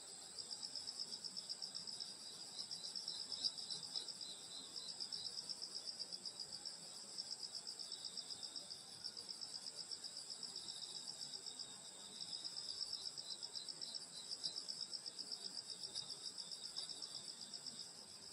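Night chorus of crickets and other grass insects: several high, rapidly pulsing trills overlapping steadily.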